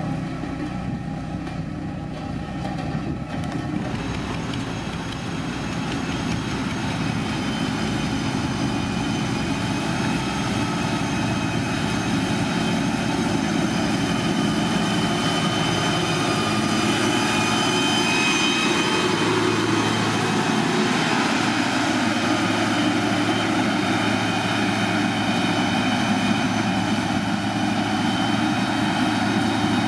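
Diesel engine of a heavy road-construction machine running steadily, with a high whine that comes in about four seconds in and grows a little louder.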